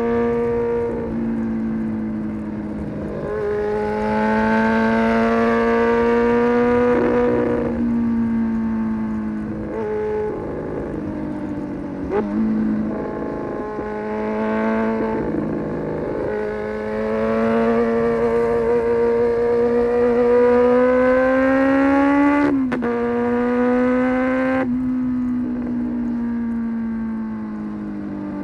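Honda CB400 Super Four's inline-four engine through an SC-Project aftermarket exhaust while riding: the engine note climbs steadily in each gear, with a short break and drop in pitch at each of several gear changes.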